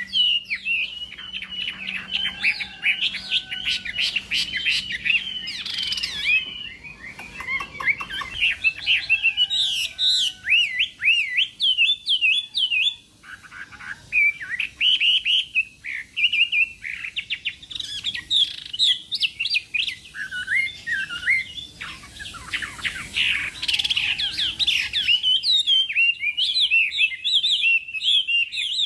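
Chinese hwamei (họa mi) singing a long, rapid, varied song of whistled and warbled notes, with a brief pause about halfway through.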